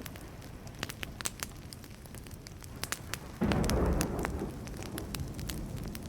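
Wood campfire crackling with frequent sharp pops. About three and a half seconds in, a sudden low rumble of thunder breaks in and slowly fades.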